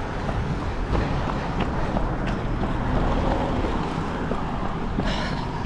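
Motor traffic passing along a road, heard under wind buffeting a microphone carried by a runner; a steady rumble with a few faint clicks.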